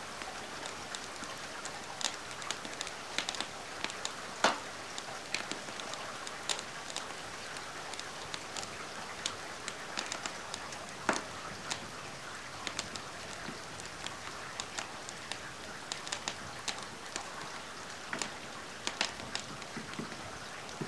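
Steady rain hiss mixed with the irregular sharp pops and crackles of a wood fire burning in a fireplace, one louder pop about four and a half seconds in.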